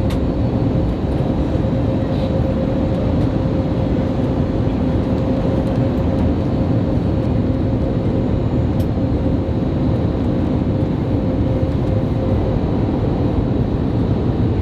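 Steady cabin noise of an Airbus A321neo in flight: a dense engine-and-airflow rush with a steady hum, whose mid-pitched tone fades out near the end.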